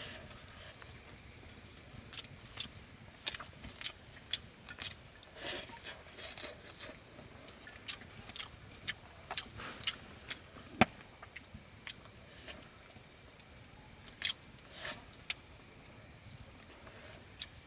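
A person eating: irregular chewing and crunching, with scattered sharp clicks and a sharper knock about eleven seconds in.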